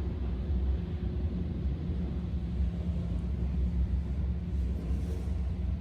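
Steady low machinery rumble with a faint even hum during an automatic truck wash.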